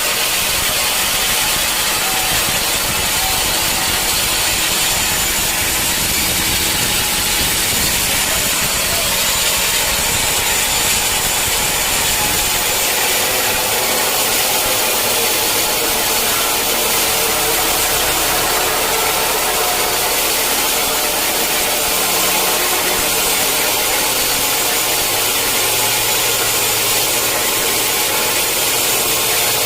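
Sawmill saw running and cutting through a mahogany log, a steady loud machine noise with the sawing sound of the blade in the wood. The low rumble changes slightly about twelve seconds in.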